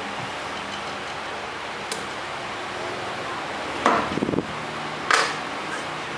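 A few sharp knocks and a short clattering rattle about four seconds in, from bamboo bird-cage frame parts being handled and tapped together during assembly, over a steady hum of room noise.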